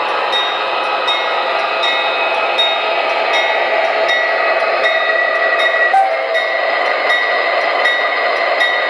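MTH Premier O-gauge ES44AC model diesel locomotive running on its track: a steady diesel-engine sound from its onboard speaker mixed with motor and wheel noise, with no deep bass. Light clicks come at about two a second throughout.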